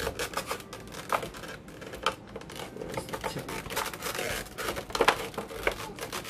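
Packaging being handled: plastic and cardboard crinkling and rustling with many small clicks and scrapes, as a figure taped into its box is worked loose.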